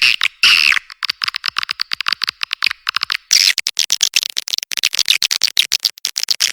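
Swiftlet lure recording: rapid trains of swiftlet chirps and clicks, many a second. About three seconds in, the clicking becomes denser and fuller.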